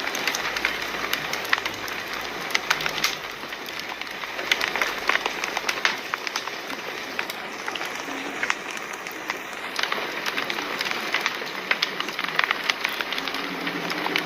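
Fire crackling: a steady hiss of burning with frequent sharp pops and snaps scattered irregularly throughout.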